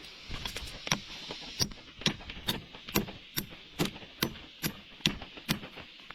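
A steady series of sharp knocks or chops, a little over two a second, over a constant hiss.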